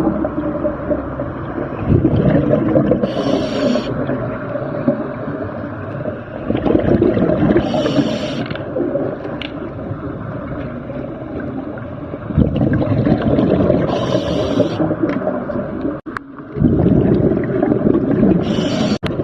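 Scuba diver breathing underwater through a regulator: a short hiss on each inhale, roughly every five seconds, between long stretches of rumbling, gurgling exhaled bubbles.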